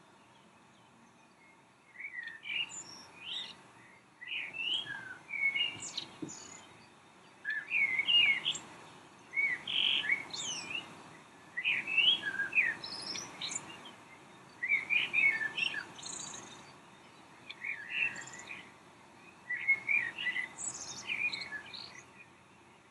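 Birdsong: short phrases of quick, sweeping chirps, one after another with brief pauses, starting about two seconds in.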